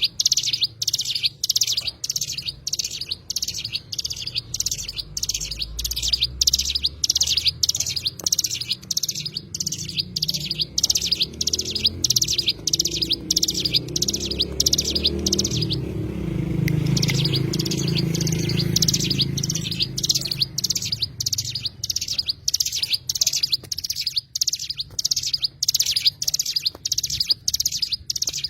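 A cigun bird chirping in a rapid, even run of high notes, about three a second, with a short break around the middle. A low rumble swells and fades around the middle of the run.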